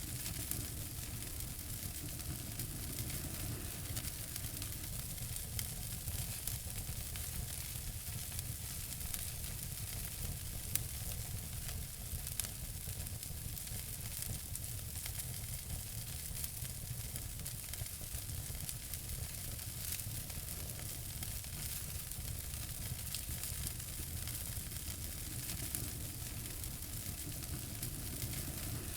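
Fire in a fireplace crackling steadily: a soft hiss full of small crackles, with a sharper pop about eleven seconds in.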